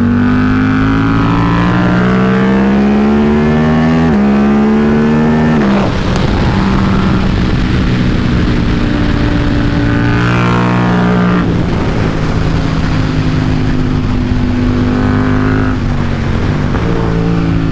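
KTM RC8C race bike's single-cylinder engine under hard acceleration on track, the pitch climbing and dropping sharply at each upshift. About six seconds in it turns rough for a few seconds before climbing through the gears again, then its pitch falls near the end.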